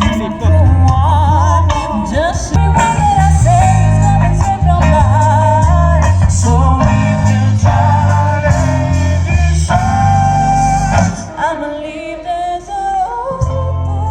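Live band playing, with a singer's wavering melody over heavy bass notes. The bass drops out briefly about eleven seconds in, then comes back.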